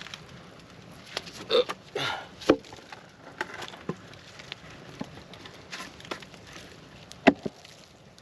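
Wooden knocks and rattles as a wooden board is set out and handled, with scattered clicks. The sharpest knocks come about two and a half seconds in and, loudest, about seven seconds in.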